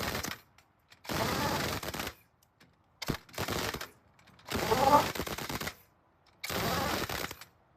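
Impact wrench rattling in short bursts about a second long, four times with pauses between, running the wheel nuts onto a truck wheel's studs.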